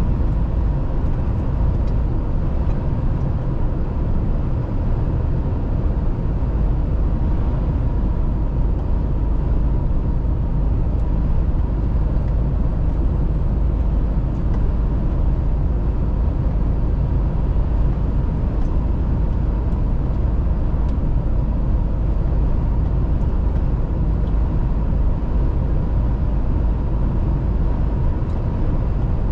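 Mercedes-Benz Actros truck driving at a steady pace: an even, low drone of engine and road noise with a faint steady whine above it.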